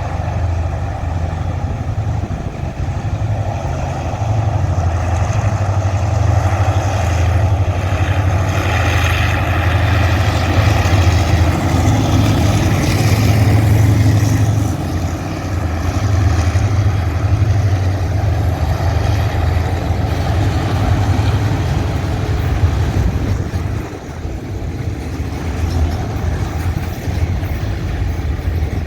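Diesel locomotive engine running with a deep, steady rumble, growing a little louder and noisier between about 8 and 15 seconds in and dipping briefly near 24 seconds.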